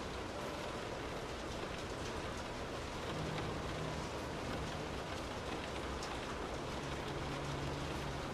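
Steady rain falling, an even dense patter of drops on a surface. A faint low hum sits under it from about three seconds in.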